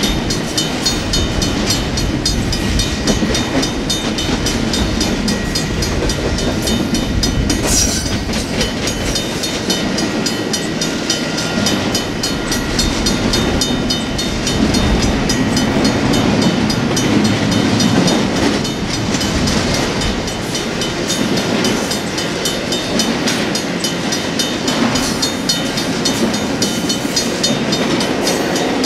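Union Pacific double-stack intermodal container cars rolling through a grade crossing: a steady rumble with a rapid, repeating clatter of wheels on the rails.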